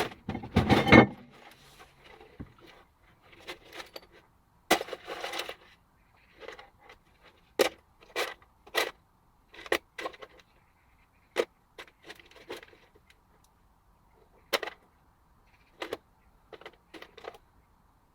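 Metal parts and tools being handled: a run of sharp, irregular clinks and knocks with short scrapes, loudest in the first second.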